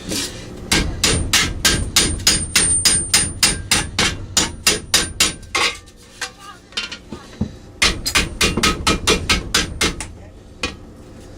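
Rapid hammer blows on metal, about four or five a second with a faint high ring, in two runs about two seconds apart: a bent mini bike part being hammered straight.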